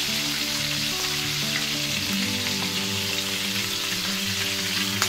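Chicken drumsticks frying in shallow oil in a non-stick pan, with a steady sizzle.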